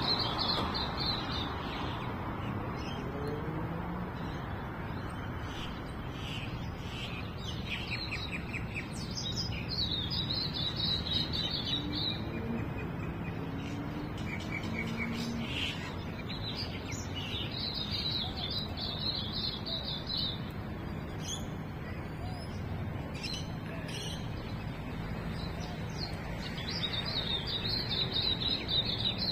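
Wild birds chirping and singing, with a high warbled song phrase of two or three seconds repeated about every eight seconds and shorter chirps between, over a steady low background rumble.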